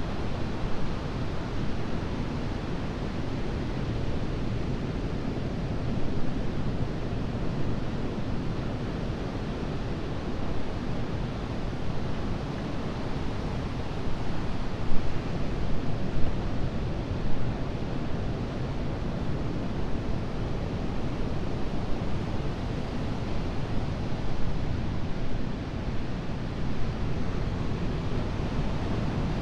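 Ocean surf on a beach: waves breaking and washing in, a steady rushing noise that swells and eases, with a few louder breakers around the middle.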